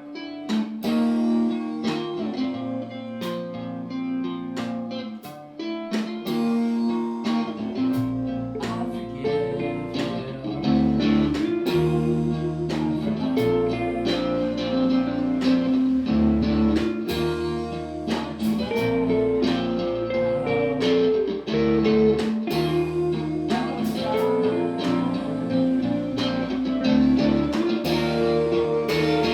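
Live band playing an instrumental passage led by guitar over a steady beat of sharp hits, with a deep bass part coming in about eight seconds in.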